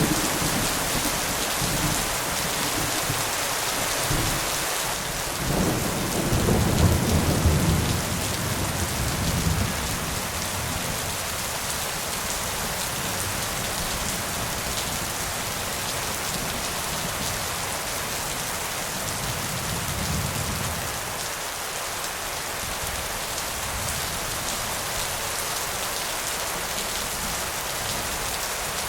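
Steady heavy rain with rolling thunder. A long rumble builds about six seconds in and is loudest around seven to eight seconds, and a fainter rumble comes about twenty seconds in.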